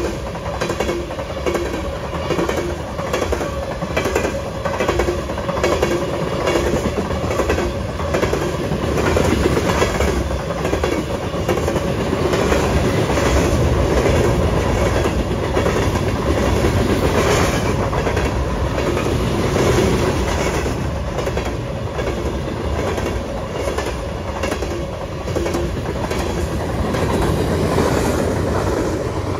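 A passing train, its cars rolling by with the steel wheels clicking over the rails in a steady, regular clatter.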